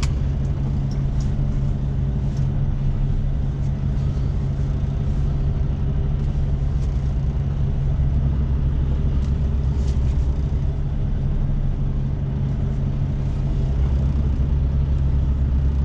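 Semi truck's diesel engine running at low speed, heard from inside the cab as a steady hum. The deep low rumble grows louder about halfway through and again near the end.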